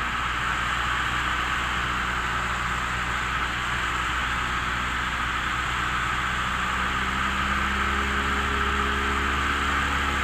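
1976 Cessna 172M's four-cylinder Lycoming engine and propeller running steadily on approach, heard inside the cabin under a strong even hiss of airflow. The engine note changes about seven seconds in.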